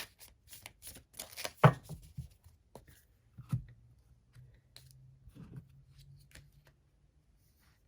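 A deck of oracle cards being shuffled and handled: a run of quick papery flicks and taps, the loudest about one and a half seconds in, growing sparse toward the end.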